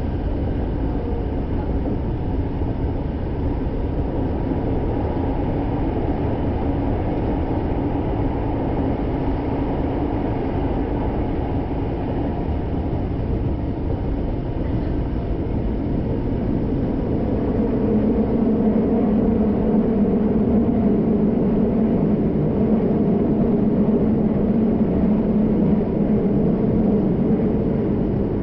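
Kyoto Municipal Subway Karasuma Line train running between stations, heard from inside the car: a steady rumble of wheels on rail. About two-thirds in, the running noise grows louder with a stronger low hum, easing off near the end.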